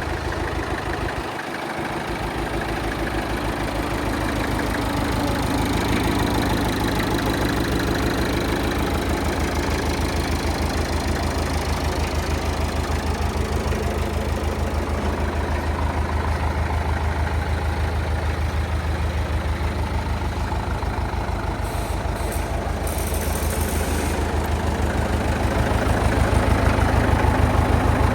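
International B414 tractor engine idling steadily with an even firing rhythm.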